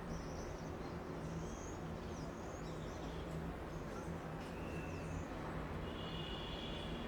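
City background rumble with a low steady hum, over which birds chirp and call repeatedly in short high notes; a longer, steadier high call comes near the end.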